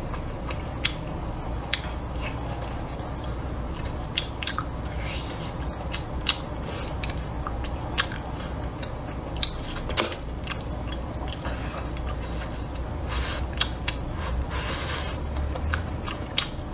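Close-up chewing and biting of braised pork ribs, with many short, sharp clicks scattered throughout and one stronger one about ten seconds in.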